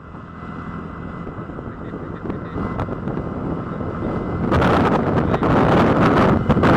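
Wind buffeting the microphone on a moving scooter, with rushing road noise. It grows steadily louder and becomes heavy, gusty buffeting from about four and a half seconds in.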